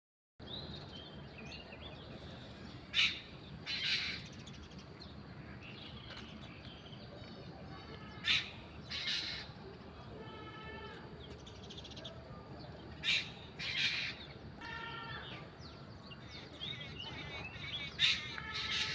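Birds calling in the morning: four pairs of loud calls come about every five seconds, with softer chirping from other birds in between.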